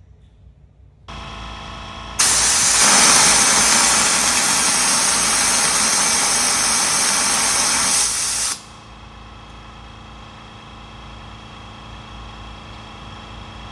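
An air compressor starts running about a second in. From about two seconds in to about eight and a half, a loud hiss of compressed air rushes through a venturi vacuum coolant filler, pulling a vacuum on the engine's cooling system. After that the compressor keeps running steadily on its own.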